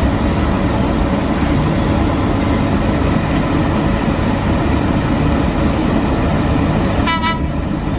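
Heavy road-construction machinery engines running steadily under load, with a short horn toot about seven seconds in.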